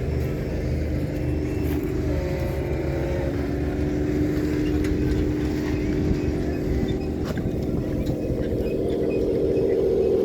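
A vehicle engine running with a steady drone; its pitch shifts a couple of seconds in and it grows louder near the end.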